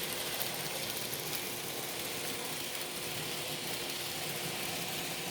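N-scale model train running on the layout: a steady electric motor hum with the rush of wheels on the rails.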